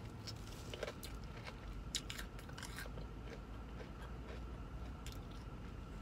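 Biting into and chewing crunchy battered fried seafood, with scattered crisp crunches, clearer about a second in, around two seconds and near five seconds.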